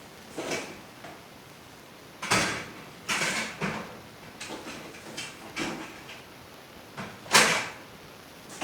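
Parts of a kayak cart being handled and laid out for assembly: a string of irregular scrapes and knocks, the loudest about seven seconds in.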